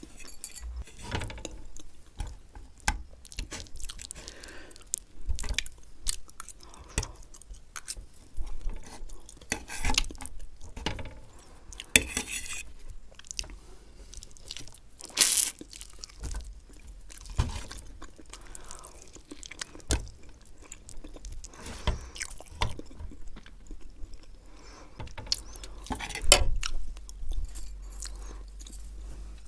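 Close-miked chewing and mouth sounds of a person eating Maggi instant noodles and fried egg, in irregular short bursts with sharp clicks.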